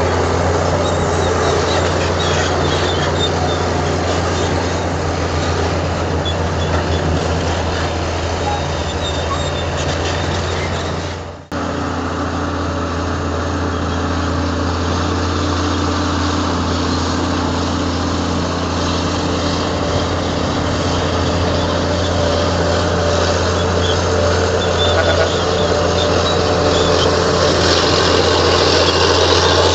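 Heavy diesel earthmoving machinery running steadily with a deep engine hum. The sound drops out briefly about eleven and a half seconds in, then resumes.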